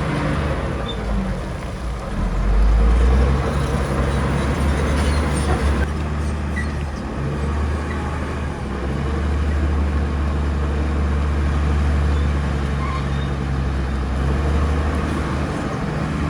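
Heavy diesel engine of earthmoving machinery running with a steady deep drone, swelling louder about two seconds in.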